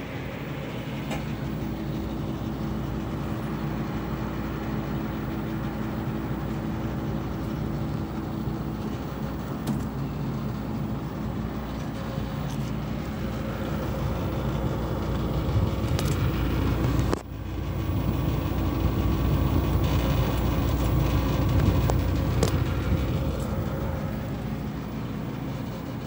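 Panasonic 2J45FHA2 running at medium speed with a steady hum and an abnormal noise from something loose inside it. The sound drops out briefly about two-thirds of the way through, then comes back a little louder.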